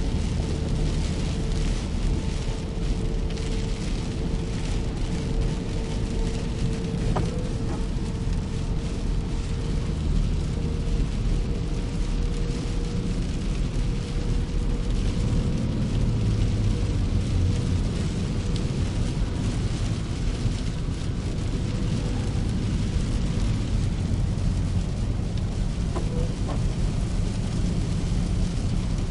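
A car driving in rain: a steady low rumble of engine and tyres on the road under an even hiss of rain, with a faint steady hum for most of it.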